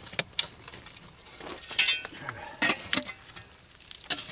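Hand digging in a bottle dump: a digging tool scraping and crunching through dirt and broken glass, with a few short, sharp clinks, the loudest a little under halfway through.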